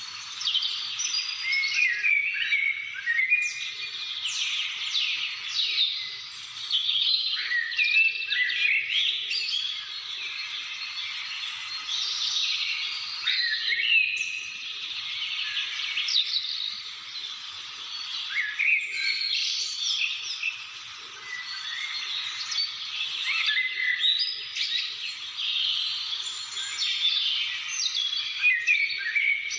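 Several wild birds chirping and singing at once: a dense, overlapping chorus of quick chirps and short trills, some louder calls standing out above the rest.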